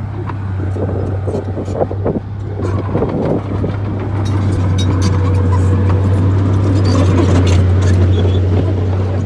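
Bulldozer's diesel engine running with a steady low drone, with scattered clanks and knocks from the tracks and blade as it works the soil; it grows louder from about four seconds in.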